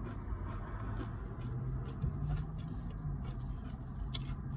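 Steady low rumble and faint hum inside a truck cab, with a few small clicks and a brief hiss about four seconds in.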